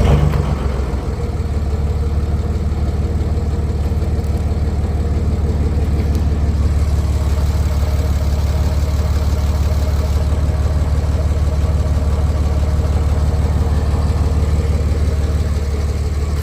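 Ford LCF truck engine idling steadily through its newly built, nearly finished exhaust, just after being started. A brief flare comes at the very start before it settles into an even idle.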